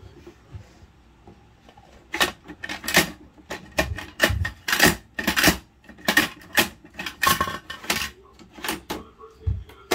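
Plastic clacking and rattling from a Bruder toy garbage truck and its toy bins being handled: a dense run of sharp clicks and knocks starting about two seconds in and stopping near the end.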